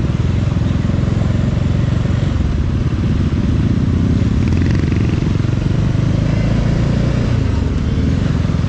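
Bajaj Dominar 400's single-cylinder engine running steadily under way, its exhaust pulses at an even pace.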